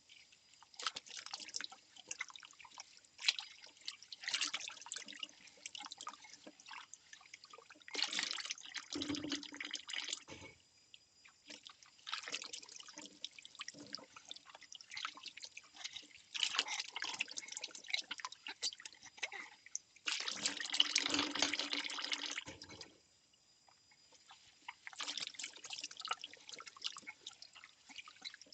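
Dishes being washed by hand in a kitchen sink: water trickling and splashing in stretches, with small clicks and knocks of ceramic bowls. There is a longer, steadier run of water about two-thirds of the way through.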